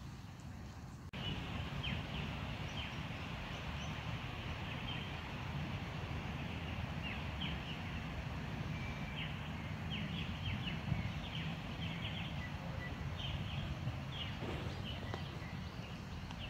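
Birds chirping, many short high notes scattered over a steady low rumble.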